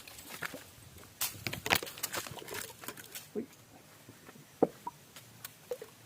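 Footsteps and scuffs on dry rock: irregular short clicks and scrapes, a few of them sharper.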